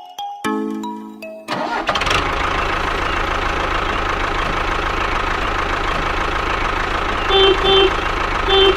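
A short chime melody ends, and about a second and a half in a tractor engine starts suddenly and runs steadily. Near the end, horn beeps sound in pairs, twice.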